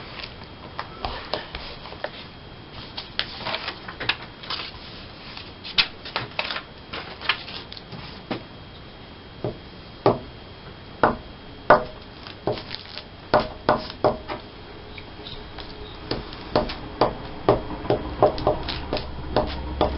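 Paper being handled at a craft table: irregular sharp clicks and crinkles, some louder than others, over a quiet room hiss.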